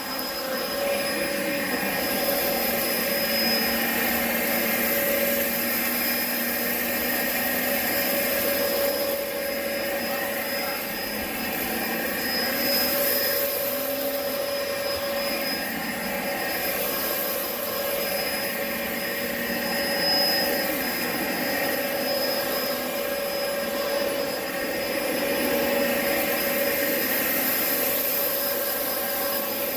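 Vacuum cleaner running continuously, a steady motor whine with a hiss that swells and fades every few seconds as it is worked back and forth.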